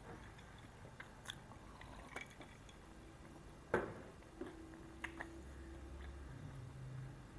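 Close-miked chewing of a grilled pita wrap, with a scattering of short sharp mouth clicks and crunches, the loudest one a little before halfway through.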